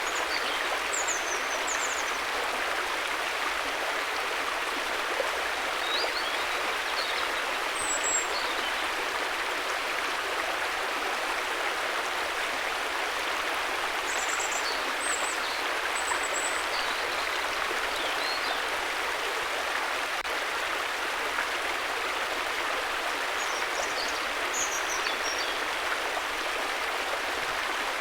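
River water flowing steadily, an even, unbroken rush of moving water, with a few faint high chirps here and there.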